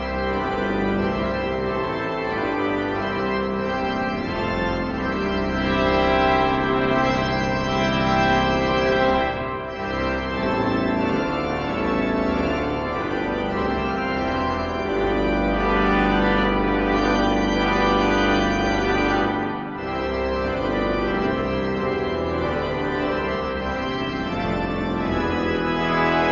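Organ music: long held chords that change slowly, dipping briefly about ten and twenty seconds in as the chords change.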